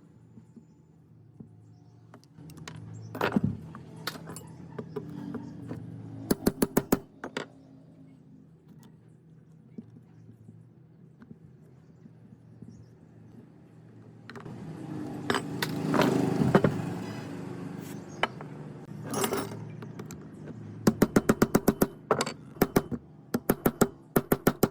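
Hand work on metal parts: scattered sharp knocks, short runs of rapid light taps, and a few seconds of scraping noise around the middle.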